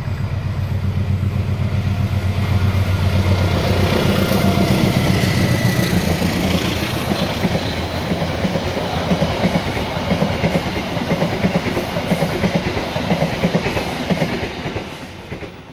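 Diesel-hauled passenger train passing close by: a low engine drone in the first few seconds as the locomotive goes past, then the steady rhythmic clickety-clack of the coaches' wheels on the rails, fading out near the end as the last coach passes.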